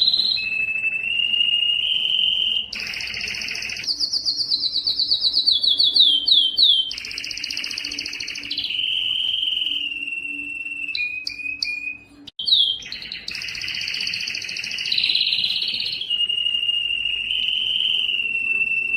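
Yellow canary singing a continuous song of rolling trills and held whistled notes, changing pitch every few seconds. There is a run of quick falling notes about five seconds in and a brief pause about twelve seconds in.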